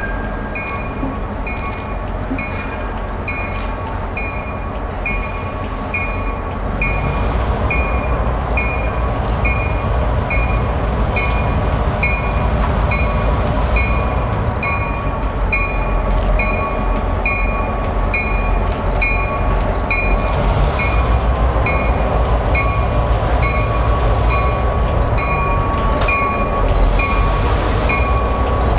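Train passing, a low rumble that grows louder about seven seconds in and stays up. A high ding repeats at an even pace over it, with scattered clicks.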